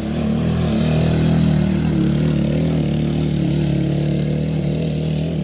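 Old Suzuki 230 quad's engine running as it is ridden around a small dirt track. It grows louder over the first second and its revs waver slightly up and down.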